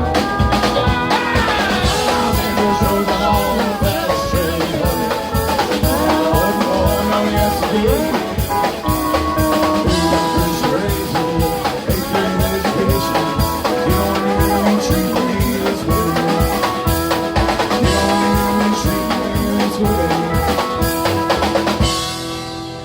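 Live band playing a fast, up-tempo song over a driving drum-kit beat. The music stops shortly before the end as the song finishes.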